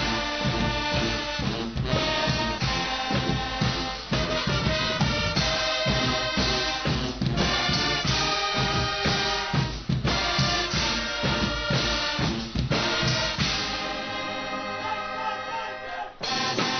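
Guggenmusik band playing: loud trumpets and trombones over a drum kit and percussion. Near the end the drums drop out under a held brass chord, then the whole band comes back in.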